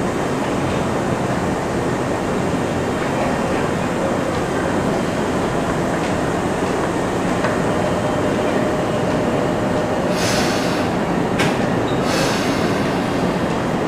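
Tokyu Oimachi Line electric commuter train running into the platform and braking to a stop, with a faint steady whine partway through. Near the end come two short hisses of air with a click between them as it halts.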